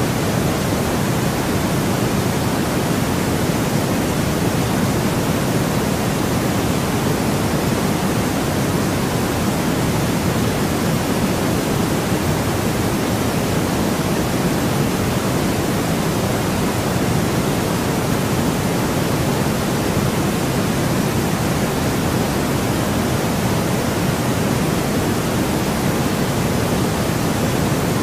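Steady white noise for sleep: an even, unchanging hiss with most of its weight in the low end, giving a deep rushing tone.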